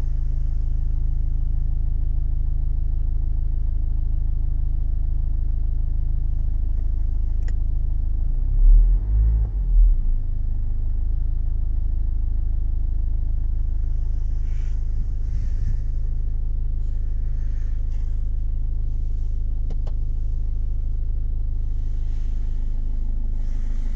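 BMW 520d F10's four-cylinder diesel engine idling steadily shortly after a cold start in −12.5 °C frost, with a brief louder low rumble about nine seconds in.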